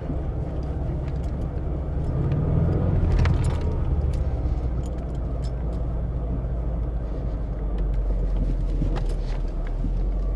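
Subaru WRX's turbocharged flat-four engine running as the car is driven slowly, a steady low rumble heard from inside the cabin, with a few light clicks and rattles.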